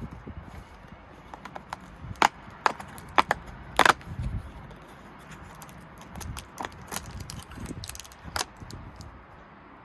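Small packaging and plastic pieces being handled, as when opening a Kinder Surprise egg: a string of sharp clicks, snaps and crackles, loudest in a cluster about two to four seconds in, then sparser.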